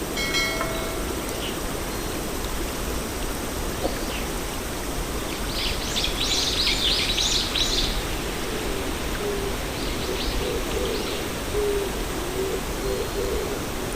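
Birds calling over a steady rushing background: a burst of quick high chirps from a small bird around the middle, then a low call repeated in short notes through the second half.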